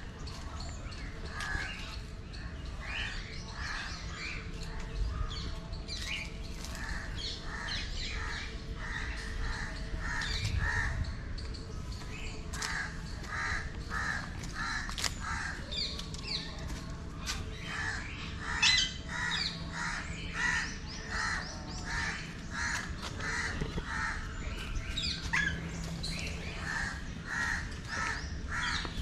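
Caged aviary birds, parrots among them, calling: runs of short harsh calls several a second, coming in bouts, with higher chirps and squawks over them.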